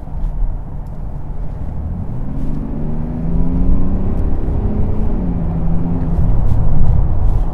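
Mercedes GLS 400d's straight-six diesel pulling under acceleration over steady road rumble: the engine note rises from about two seconds in, drops about five seconds in as the automatic shifts up, then climbs again.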